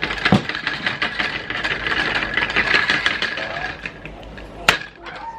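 Rapid, continuous rattling and clattering of metal kitchen utensils being handled, with a sharp knock just after it starts and another about a second after the rattling stops.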